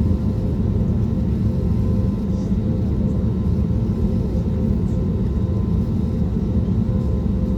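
Steady low rumble of engine and airflow noise inside the cabin of an Airbus A320neo with CFM LEAP-1A26 engines, with a faint steady hum above it.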